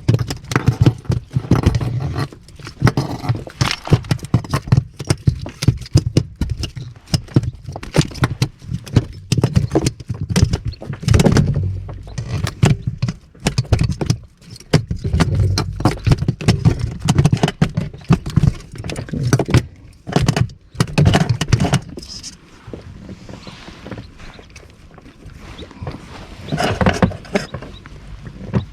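A landed fish thrashing on the floor of an inflatable boat, making rapid, irregular thumps and slaps over a low wind rumble. The thumps thin out about 22 seconds in, with a few more near the end.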